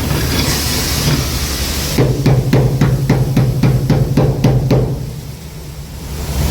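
A rapid, even run of about a dozen sharp knocks, roughly four a second, over a low steady hum; the knocks stop about five seconds in and the sound drops away briefly.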